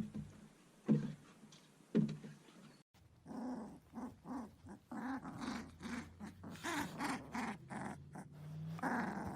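Siberian husky vocalizing: three short, sharp barks about a second apart, then a longer run of quick, pitched husky 'talking' noises, one after another.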